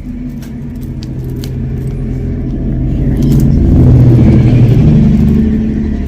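A motor vehicle passing close by: its engine swells to a peak about four seconds in and then fades. Light metallic clinks of jewelry being handled over it.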